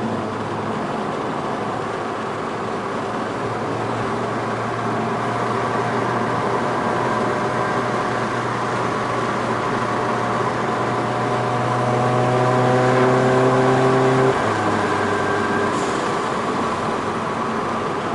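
Stage 2+ tuned Seat Ibiza Cupra 1.4 TSI engine and exhaust pulling under load, its note climbing slowly and getting louder for about ten seconds. About fourteen seconds in the pitch drops all at once at a gear change, and the engine carries on at a lower note.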